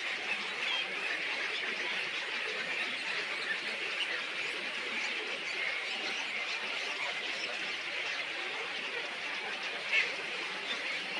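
A dense, continuous chorus of many small birds chattering and chirping all at once, with one louder call about ten seconds in.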